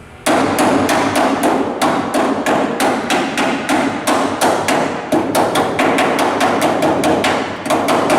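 Hammer striking steel sheet metal in a fast, even run of sharp blows, about three to four a second, starting a moment in: body panel metal being worked by hand during rust repair.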